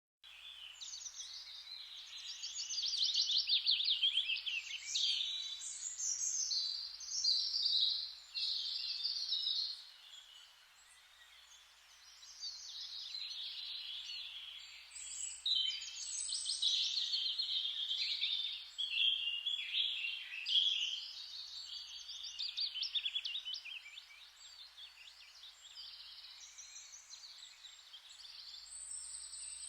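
Forest ambience: several songbirds chirping and trilling in overlapping phrases over a steady hiss, with a brief lull about ten seconds in.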